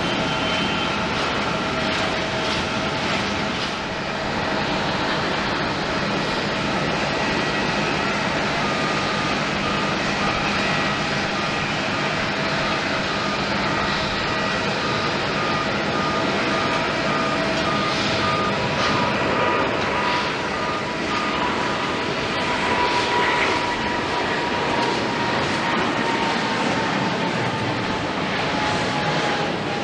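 Jet engines of a Boeing 777 running steadily: a continuous rush with a whine of several held tones, one of which slowly falls in pitch over the second half.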